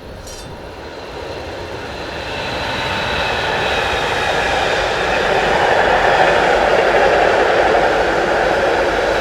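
A train running past at a railway level crossing, its rolling noise building over the first three seconds or so and then holding steady, with a faint high whine on top.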